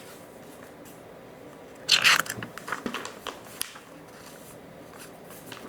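A page of a picture book being turned: a brief paper rustle about two seconds in, followed by a few light crinkles and ticks of the paper.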